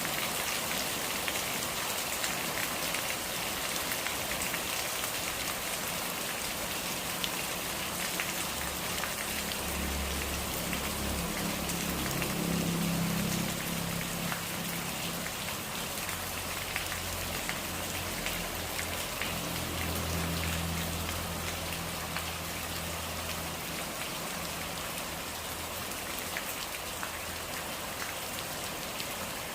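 Steady rain falling, with close drops pattering on surfaces. A low hum rises under the rain from about nine seconds in and fades out again before the end.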